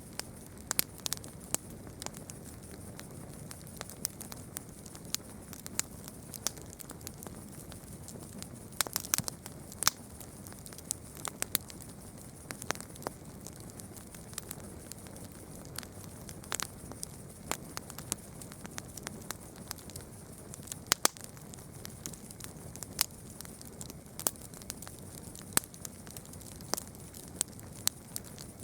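Campfire crackling, with irregular sharp pops and snaps over a low steady hiss and a quick run of pops about nine seconds in.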